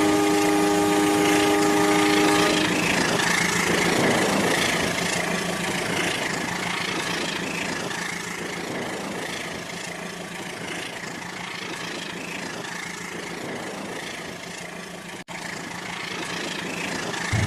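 Rail King toy train: its electronic horn sounds a chord of several steady tones for about the first two and a half seconds, then the train runs on with a steady noise that slowly grows fainter. The sound cuts out for an instant near the end.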